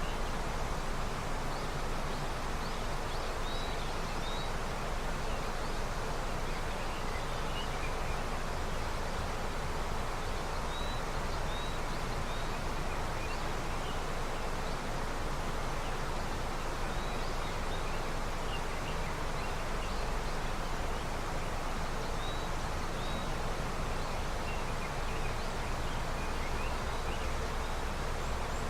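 A river in early snowmelt running with a steady rush of water. Faint short bird chirps come and go over it throughout.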